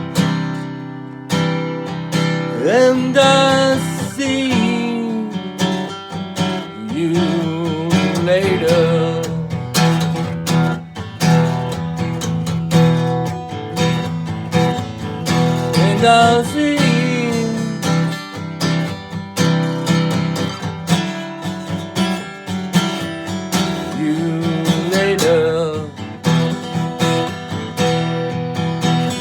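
Instrumental passage of a song: acoustic guitar strummed steadily, with a bending melody line rising over it a few times.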